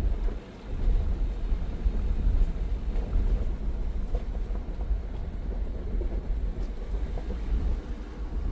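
Inside a pickup truck's cab while it crawls along a rough dirt trail: a steady, uneven low rumble from the engine and tyres, with small knocks and rattles.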